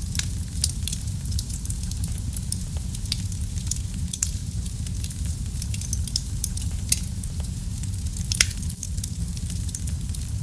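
Wood fire in a fireplace crackling: a steady low rumble of flame with frequent sharp snaps and pops, two louder pops about seven and eight and a half seconds in.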